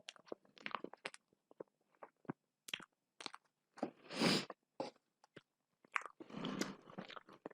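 A person eating close to the microphone: a string of short, wet mouth clicks and smacks as food is chewed, with one louder, longer crunch about four seconds in and busier chewing near the end.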